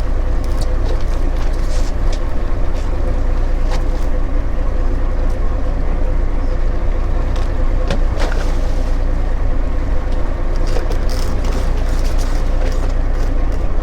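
A fishing boat's engine running steadily, with scattered sharp clicks and knocks on top.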